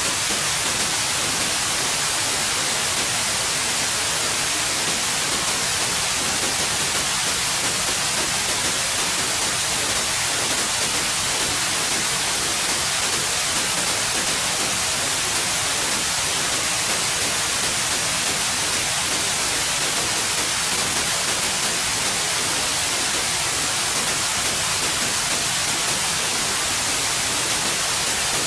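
Steady white noise: an even, continuous hiss that never changes, brightest in the high end.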